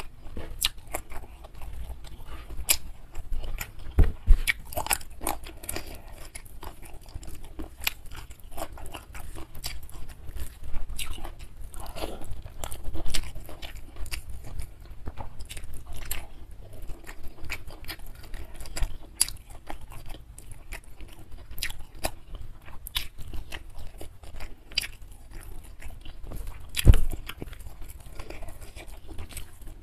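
Close-miked chewing of a mouthful of nasi padang with grilled fish, a dense run of irregular wet mouth clicks and crunches. Twice, about four seconds in and near the end, a louder dull thump stands out.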